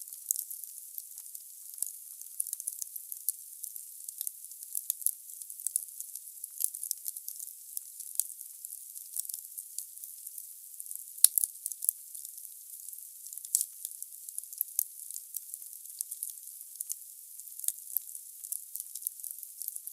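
Wood burning in a fireplace: a steady soft hiss with many quick, sharp crackles of the logs, and one louder pop about eleven seconds in.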